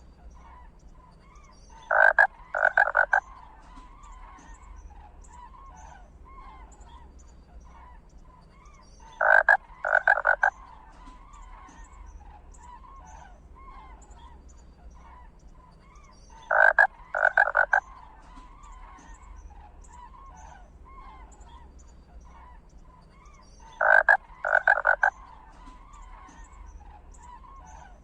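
Loud animal calls in groups of three, one group about every seven seconds, over a faint, continuous chatter of smaller calls and a low steady hum.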